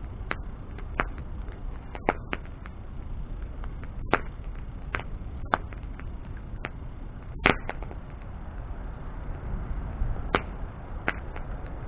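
Wood bonfire crackling: a dozen or so sharp, irregular pops and snaps over a steady low rumble, the loudest pop about seven and a half seconds in.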